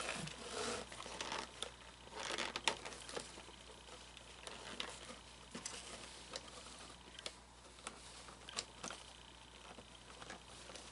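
Fabric rustling and light handling clicks as clothing is tugged and adjusted on an animatronic figure, in scattered bursts with a louder spell near the start and another about two seconds in.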